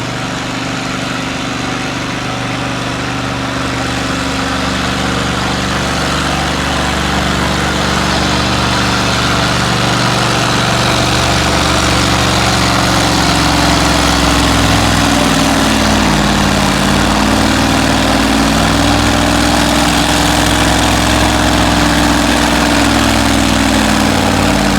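The V8 diesel engine of an International Harvester 1468 tractor running hard under load in a tractor pull, growing steadily louder. About two-thirds of the way through, its pitch sags briefly and then climbs back.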